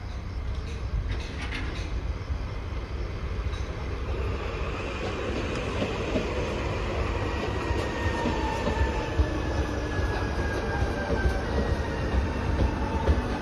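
A Renfe class 465 (CAF Civia) electric commuter train arriving alongside the platform and rumbling past, growing louder. A thin whine slowly falls in pitch as it slows, and sharp wheel clacks come in the second half.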